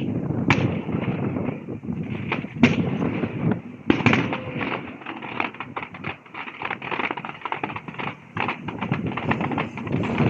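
Fireworks going off: sharp reports about half a second, two and a half and four seconds in, then a long run of rapid crackling, over a low rumble.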